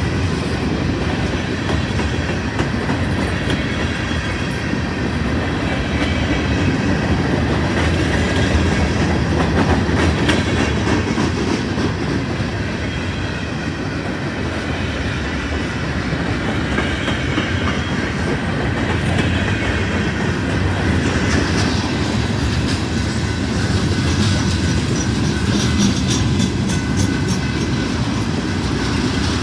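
Freight train cars rolling past steadily, their wheels clacking over the rail joints, with sharper clicks clustering near the end.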